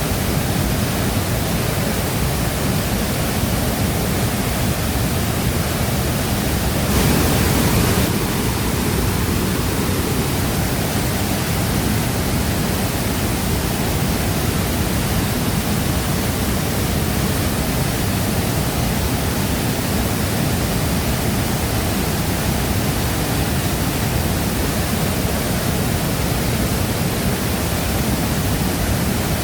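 Shifen Waterfall's water falling into its plunge pool: a steady, dense rush, briefly louder for about a second around seven seconds in.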